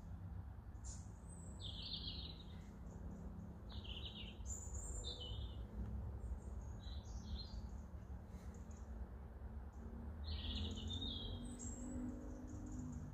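Songbirds singing in short, separate chirpy phrases every second or two, over a steady low rumble.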